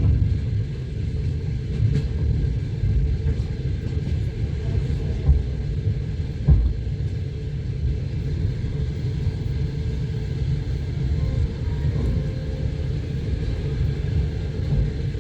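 Passenger train running on the rails, heard from inside the carriage: a steady low rumble of the wheels with a few sharp knocks, about 2, 6 and 12 seconds in.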